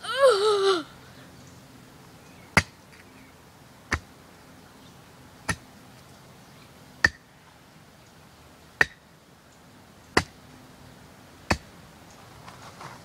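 Axe chopping into a frozen dead bird: seven sharp chops about every one and a half seconds. At the start there is a short, high, wavering yell.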